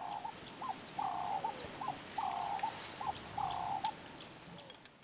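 A bird calling a repeated two-note phrase, a longer note followed by a short rising note, four times about a second apart, with faint chirps of other small birds behind it.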